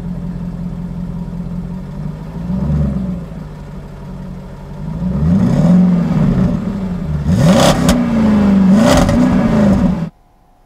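A combustion car engine idling, then revved hard several times, its pitch rising and falling with each rev and crackling at the peaks of the later revs. It cuts off abruptly about a second before the end.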